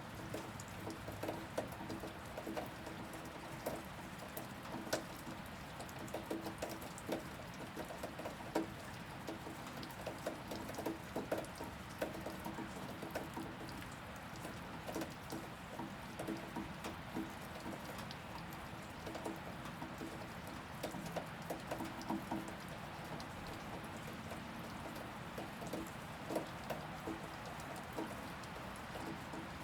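Steady rain, with heavy drops and drips striking a surface at an irregular, close-spaced rate, over a faint steady hum that fades in and out.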